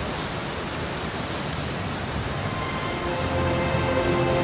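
Wind and rough sea rushing past a sailboat under sail, an even roar of noise with no break; a few steady tones join in about three seconds in.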